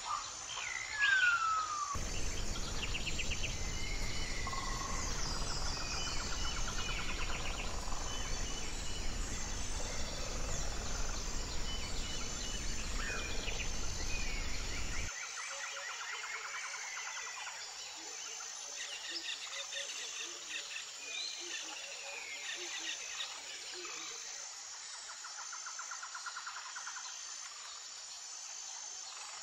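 Outdoor nature ambience: chirps and trills from several birds over a steady, high, pulsing insect trill. A low rumbling noise comes in about two seconds in and cuts off abruptly about halfway through.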